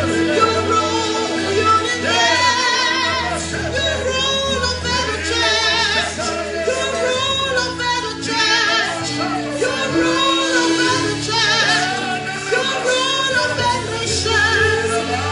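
Live church worship music: singing with a wavering vibrato over sustained instrumental chords and a steady bass.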